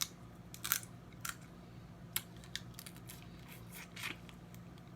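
Snow crab leg shells cracking and snapping as they are broken open: a scattered series of sharp clicks and cracks, several coming close together about a second in.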